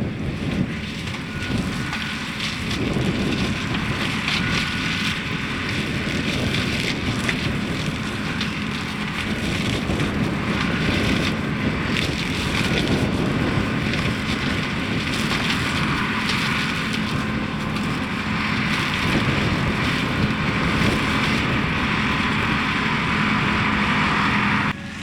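Valtra tractor running under load while the McConnel hedge-cutter's flail head spins and chops through hedge, giving a dense crackling over a steady engine and rotor hum. The sound drops suddenly near the end.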